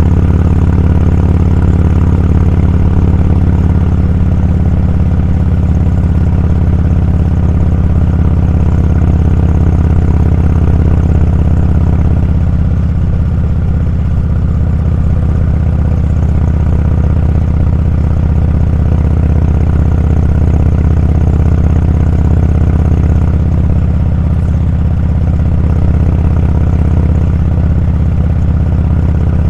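Motorcycle engine running steadily at a constant cruising speed, a low, even drone with no change in pitch.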